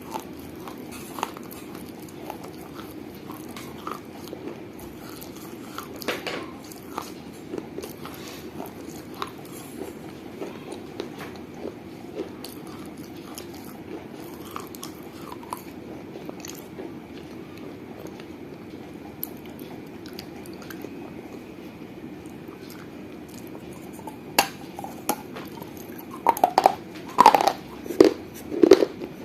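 Dry clay of a mini clay piggy bank being bitten and chewed: small scattered crunches over a steady low hum, then a run of loud, sharp bites near the end.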